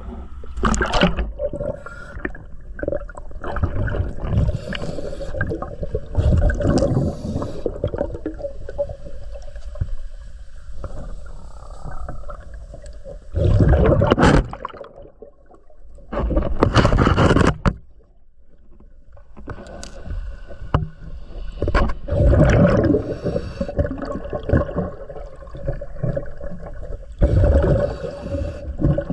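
Heard underwater: a scuba diver breathing through a regulator, each breath ending in a long gurgling burst of exhaled bubbles, with scrapes and knocks in between. Two bubble bursts about halfway through are the loudest.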